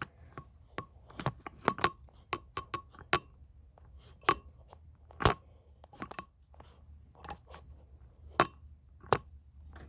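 Irregular sharp clicks and taps, about two a second, from objects being handled close to the microphone, like a phone being adjusted and set in place.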